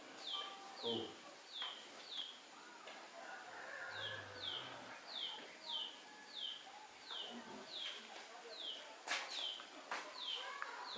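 A bird repeating a short, high, falling chirp about every half second, pausing briefly near the third second. Near the end come a couple of sharp clicks.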